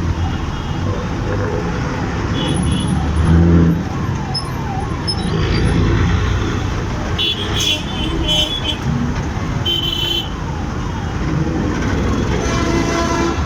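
Heavy city traffic heard from a moving motorcycle: steady engine and road rumble, with vehicle horns honking several times, including a cluster of short honks about seven to nine seconds in.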